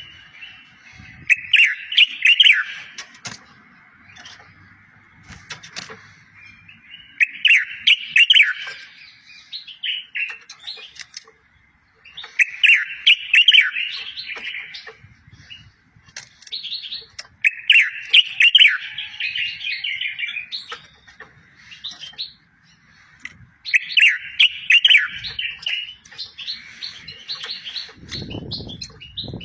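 Songbird singing short phrases of rapid, sweeping whistled notes, repeated about every five to six seconds (five phrases in all); this is tutor song played to teach goldfinches and canaries. A brief low rumble comes near the end.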